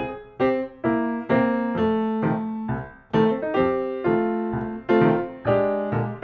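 Background piano music: a steady, flowing run of struck notes, each fading after it is played.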